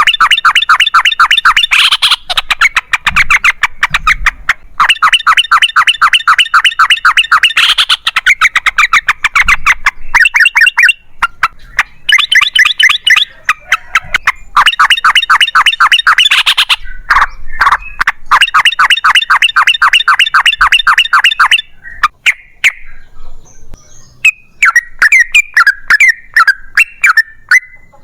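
Yellow-vented bulbul (trucukan) singing loud, rapid runs of repeated chattering notes in bouts of a few seconds each, with short breaks between them. Near the end the song turns into sparser, gliding notes.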